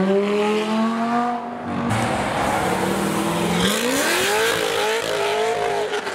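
Car engine accelerating hard, its pitch climbing. The pitch drops at a gear change about two seconds in, then climbs steeply again from about three and a half seconds.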